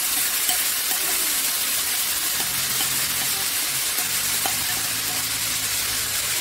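Minced meat and chopped onions sizzling steadily in hot oil in an aluminium pot, with a few light clicks of a spoon scraping the meat off a plate.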